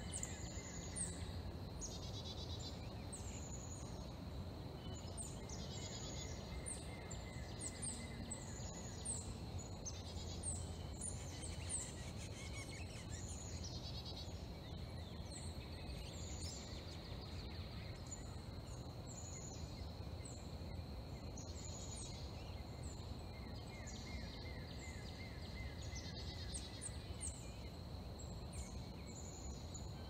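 Several songbirds chirping and singing, many quick falling high notes overlapping throughout, over a steady high thin tone and a low even background rumble.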